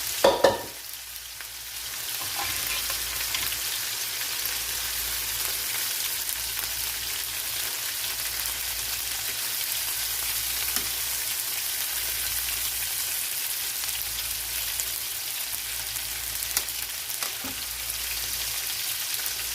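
Food sizzling steadily in a hot frying pan on the stove. A loud clatter of cookware comes just after the start, and the sizzle is quieter for a moment before it settles into a steady hiss from about two seconds in.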